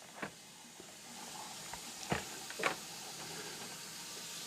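Steady background hiss with three light clicks and taps, one near the start and two about two seconds in, from handling carded die-cast toy cars in their plastic blister packs.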